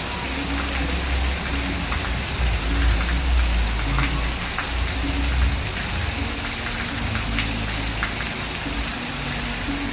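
Steady rain falling, an even hiss with scattered drop ticks over a low rumble.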